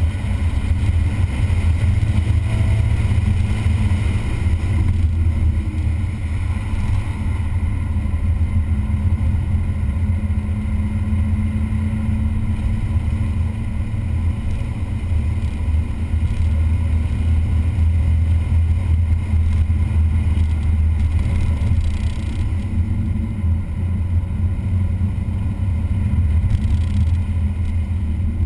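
A vehicle engine running continuously at track speed, with a heavy low rumble. Its pitch rises and falls slightly as it goes through the circuit.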